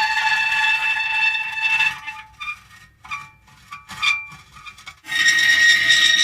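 Metal creaking: a long, high squeal held on several steady pitches, breaking into short, halting creaks about two seconds in, then settling into another long squeal a little before the end.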